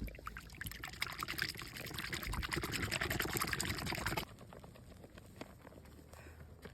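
Snow mixed with heavy cream and sweetened condensed milk being whipped in a bowl: a fast run of scraping strokes that stops suddenly about four seconds in, then fainter scattered strokes.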